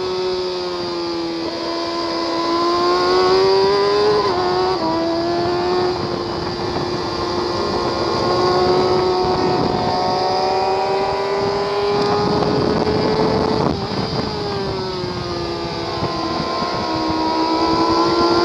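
Kawasaki ZX-6R's inline-four engine running hard on track, its high note rising and dipping with the throttle through the corners, under steady wind rush on the mic.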